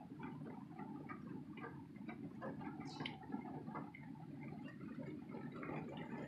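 Rain falling on a bus, heard from inside: many faint, irregular drops tapping over a low steady hum.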